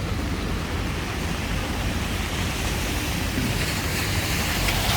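Heavy rain and wind in a city street, a steady rushing noise with wind rumbling on the microphone, growing louder near the end.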